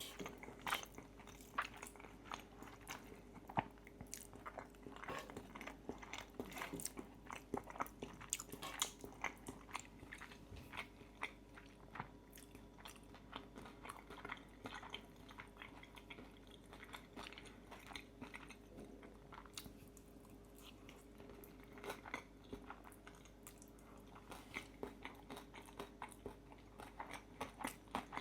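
Close-miked chewing of pasta with crispy bacon: a stream of small crunchy crackles and mouth clicks, thickest in the first ten seconds and again toward the end.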